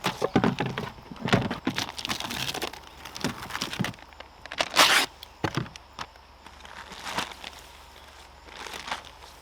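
Irregular rustling and crunching handling noise with scattered clicks, busiest in the first half, with a louder brief hissing scrape about five seconds in.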